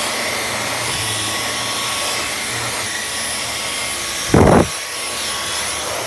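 Dyson V11 cordless stick vacuum running steadily, a rushing airflow with a thin high whine from the motor. A short loud thump comes about four seconds in.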